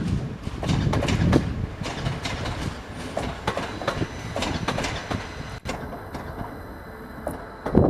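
Passing train, its wheels clattering over rail joints in a quick, irregular run of knocks over a rumble. About two thirds of the way through, the sound drops abruptly to a quieter background with a faint, steady high whine.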